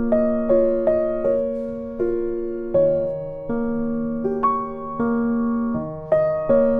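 Slow background music played on an electric piano: single notes and chords struck about once or twice a second, each ringing and fading.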